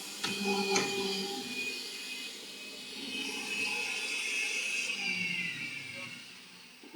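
RIDGID 535 threading machine running, with two sharp clicks in the first second, then winding down with a falling whine and fading out near the end.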